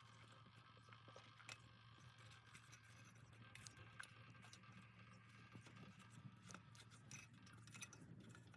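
Faint, irregular crackling and ticking of a small wood fire burning in a Sierra stove, over a steady low hum.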